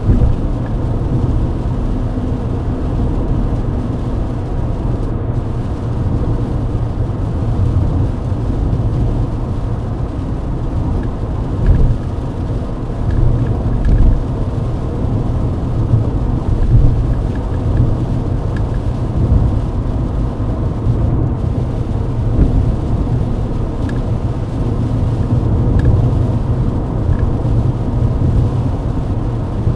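Mercedes-Benz W124 driving at highway speed on a wet road, heard from inside the cabin: a steady low rumble of engine and tyres with a wet-road hiss.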